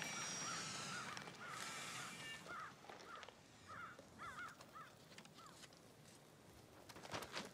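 Birds calling: a run of short, arching calls over the first half, over a light outdoor hiss. A few sharp clicks come near the end.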